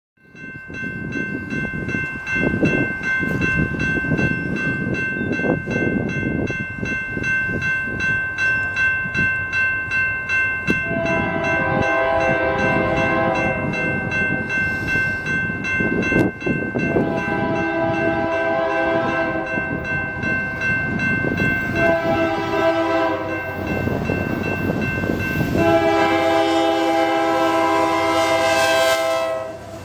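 Union Pacific diesel locomotive sounding its horn in the grade-crossing pattern of long, long, short, long as it nears the crossing. A crossing bell rings rapidly underneath, over the rumble of the approaching train.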